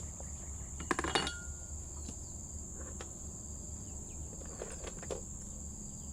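A steady high insect drone, with a quick cluster of metallic clinks about a second in and single clicks near the middle and later, as metal tool parts are handled.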